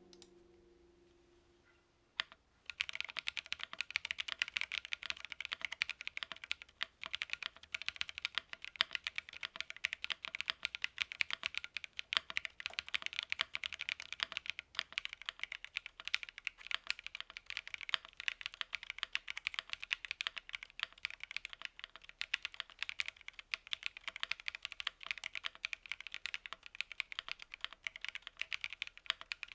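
Continuous fast typing on a MonsGeek M1 mechanical keyboard with a polycarbonate plate, GMK WoB keycaps, WS Quartz switches lubed with Krytox 205g0 and lubed Akko stabilizers. The keystrokes start about two and a half seconds in, as a fading musical note dies away.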